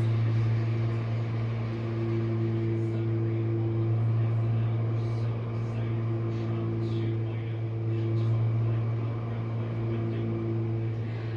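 Jenn-Air dishwasher running with a steady motor hum, a higher tone swelling and fading every couple of seconds over it, and little sound of water: it sounds as if there's no water left in it.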